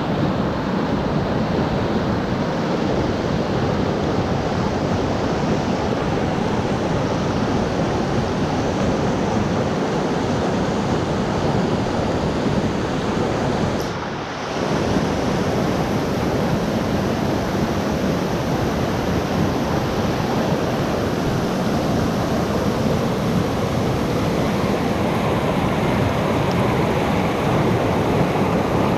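Steady, heavy rain as an even rushing hiss, dipping briefly about halfway through.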